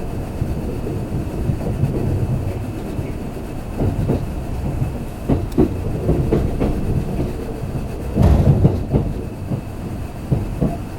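Kintetsu limited express train running at speed, heard from inside the passenger car: a steady low rumble of wheels on rails with wheel clicks, several in pairs, over rail joints. The rumble swells in a louder burst about eight seconds in.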